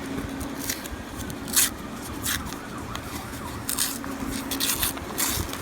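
Heavy rain pouring down in a steady hiss, with sharp metallic clinks of half dollar coins being handled several times. A faint low steady hum comes and goes underneath.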